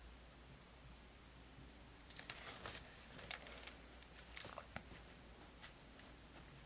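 Short crinkling rustles and a few sharp clicks from diary-decorating supplies being handled, starting about two seconds in and ending by about six seconds.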